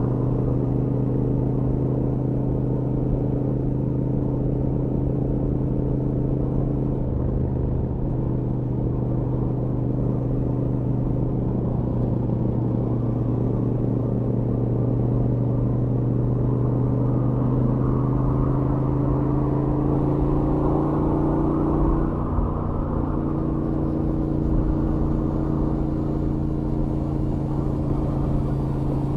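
Royal Enfield Interceptor 650's 648 cc parallel-twin engine on its stock exhaust, cruising steadily at highway speed. The engine note creeps up a little about two-thirds of the way through, then dips briefly.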